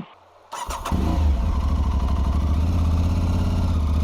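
Aprilia Tuareg 660's parallel-twin engine started on the electric starter about half a second in, catching almost at once and then idling steadily.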